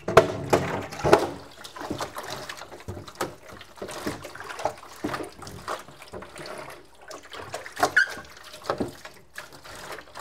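Tap water running while a plastic refrigerator part is rinsed and handled in a sink, with irregular knocks and clatter of the plastic, loudest in the first second or so.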